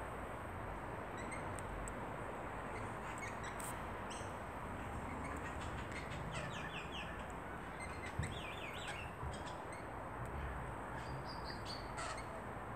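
Birds chirping faintly in quick little runs of short notes, over a steady outdoor hiss.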